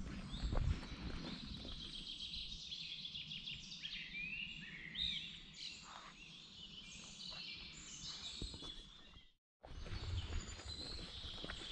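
Several songbirds singing and chirping over a low rumble with scattered thuds. The sound cuts out completely for a moment about nine seconds in.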